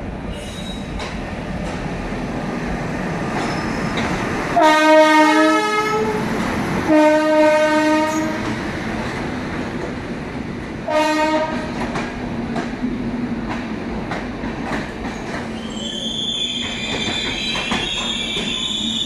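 Indian passenger train of LHB coaches running past the platform with a steady, swelling rumble of wheels on rail. The locomotive horn sounds three times, a long blast that steps up in pitch, another long one, then a short toot. Near the end the wheels squeal high and steadily.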